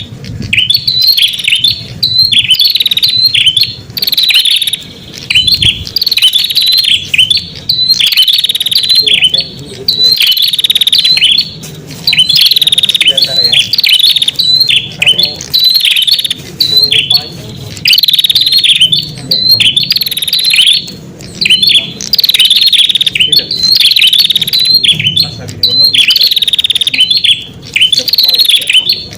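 Prenjak (red-headed prenjak) lure song: loud, rapid chirping phrases repeated over and over with brief pauses, used to call in wild prenjak.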